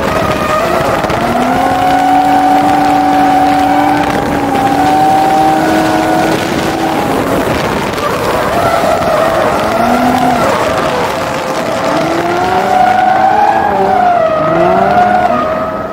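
Nissan 350Z's 3.5-litre V6 engine running hard through a drift, its pitch rising and falling as the throttle comes on and off, with tyre squeal from the sliding tyres.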